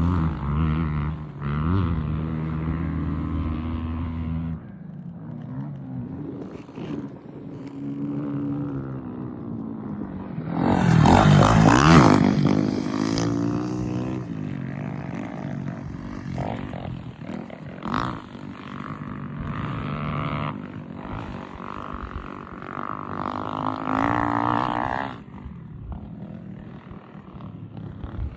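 Dirt bike engines revving up and down, with the loudest stretch, rising and then falling away, a little before halfway through.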